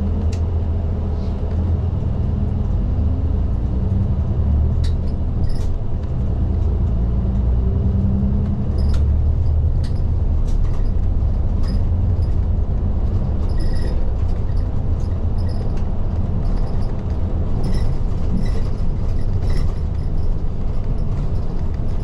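Inside a city bus (type LDG-KV234Q3) on the move: a steady low engine and road rumble, with the engine's pitch rising and falling in the first half and short clicks and rattles from the cabin here and there.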